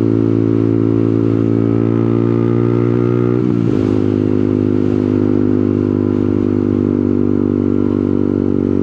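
Small motorcycle engine idling steadily, heard from the rider's position; about three and a half seconds in its pitch dips briefly and settles a little lower.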